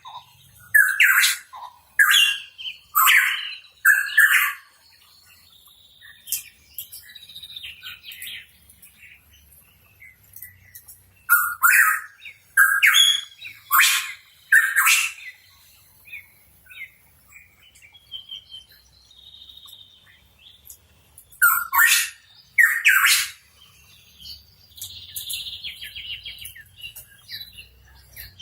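Pitohui chirping in loud clusters of short calls. About five come in quick succession at the start, another run of five falls around the middle, and two come near the end, with softer twittering in between.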